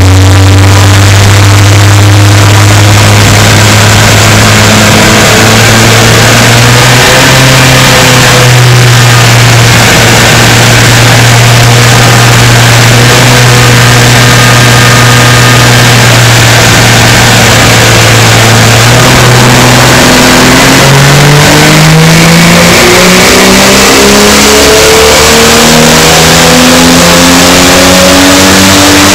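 Chrysler Hemi 265 straight-six with a four-barrel carburettor, loud, driving the rear wheels on a chassis dyno: it holds a steady speed in gear, stepping up slightly about seven seconds in, then from about nineteen seconds in pulls up with steadily rising pitch in a dyno power run.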